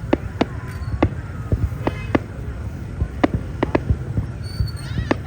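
Fireworks going off: about eight sharp bangs at irregular intervals over a steady low rumble, with a few short gliding whistles near the end.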